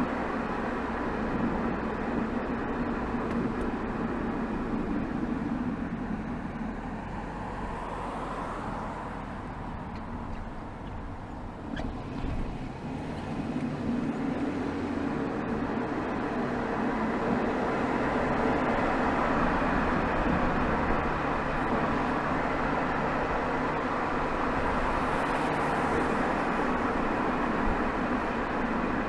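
Exhaust of a BMW 320xd's 2.0-litre four-cylinder turbodiesel (B47D20) while driving, heard from right beside the tailpipe. It eases off from about seven to thirteen seconds in, then picks up again and runs louder and steady.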